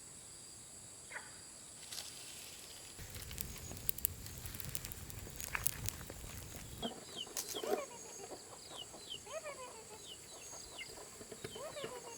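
Chickens calling, with many short, high, falling peeps and some lower clucks starting about seven seconds in. Before that come a few seconds of rustling and clicks, all over a steady high drone of insects.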